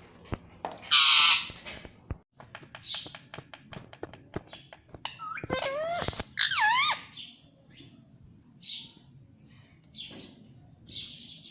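Pet Indian ringneck parrot giving one loud harsh squawk about a second in, then a run of quick clicks and chatter, with warbling whistles that swoop up and down in pitch near the middle.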